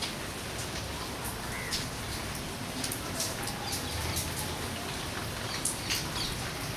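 A steady hiss with scattered light clicks and rustles, and a few faint bird chirps.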